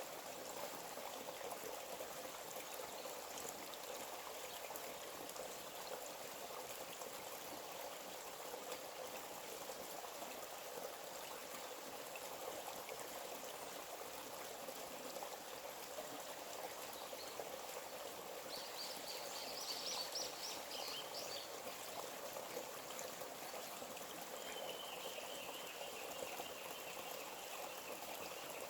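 Forest stream trickling and flowing steadily. About two-thirds of the way in a bird gives a short burst of rapid high chirps, and near the end a thin, high, held call runs for a few seconds.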